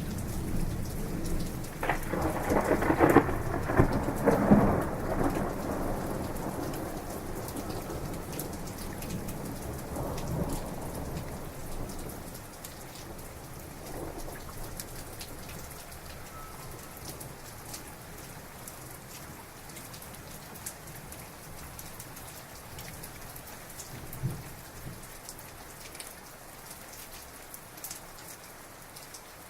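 Heavy rain falling steadily, with a loud crackling thunderclap about two seconds in that rolls on and fades away over the next several seconds. Further faint rumbles come later.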